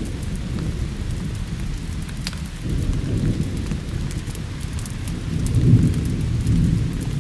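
Thunder rumbling low and rolling over steady rain, swelling about halfway through and loudest near the end, with scattered sharp crackling ticks.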